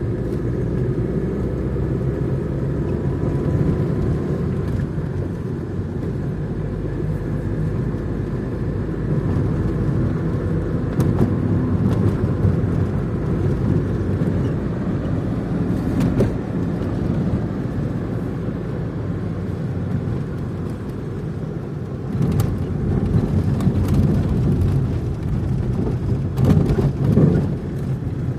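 Car driving at a steady pace: continuous low engine and road rumble, with a few sharp knocks scattered through.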